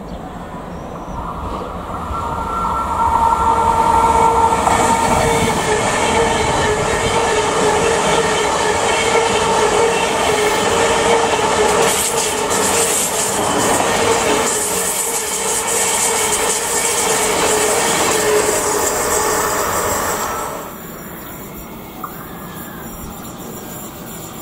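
ICE high-speed electric train passing close, a rush of wheels and rail noise with a steady high ringing tone, building up over the first few seconds. It cuts off suddenly about twenty seconds in, leaving quieter station sound.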